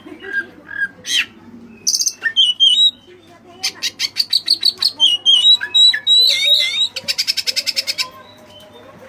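Oriental magpie-robin (white-breasted kacer) singing a loud, varied song of sharp chirps, whistled notes and quick note series, with mimicked cililin phrases, as its stuffed-in song is meant to hold. About a second from the end it gives a fast rattling trill lasting about a second.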